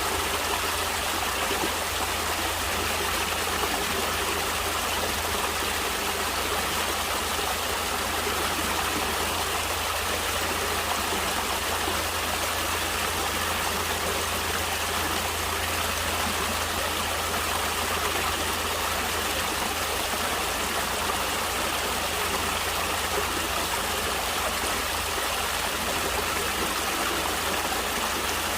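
A stream of water flowing steadily, an even rushing with no pauses or changes.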